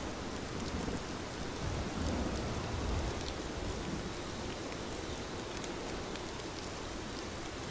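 Steady rain falling, with scattered small drop ticks and a low rumble that swells and fades about two to three seconds in.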